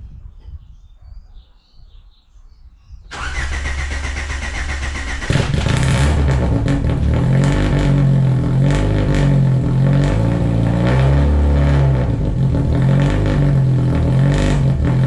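Citroën Saxo Cup track car cold-started. The starter cranks for about two seconds, then the four-cylinder engine catches and settles into a loud, wavering fast idle.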